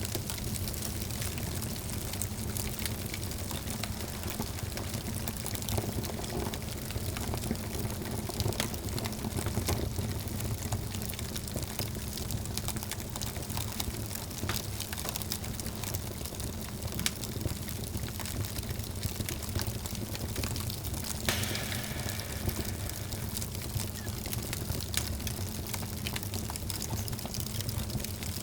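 Wood fire burning in a fireplace: a steady low rumble of flames with frequent sharp crackles and pops scattered throughout, and a brighter hiss joining about three quarters of the way through.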